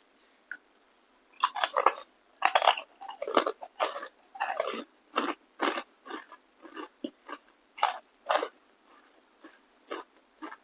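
Close-miked crunchy bites and chewing of crisp food: a run of loud crackling crunches in the first half, then sparser, softer chewing crunches.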